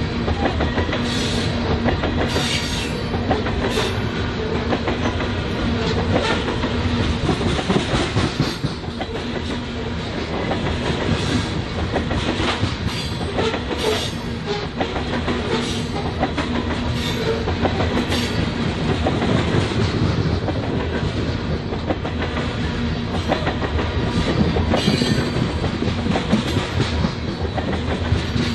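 Covered hopper cars of a BNSF grain train rolling past close by: a steady, loud rumble and clatter of steel wheels on the rails.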